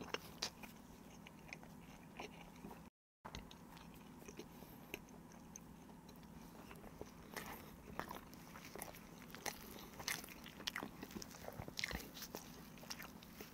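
Close-miked chewing and mouth sounds of a person eating a soft toast sandwich: quiet, wet little clicks, more frequent in the second half. A brief moment of dead silence about three seconds in.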